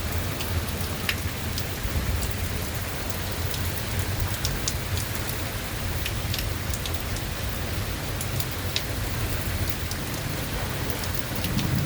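Steady rain falling in a thunderstorm, with many close drops ticking sharply over the hiss and a steady low rumble underneath.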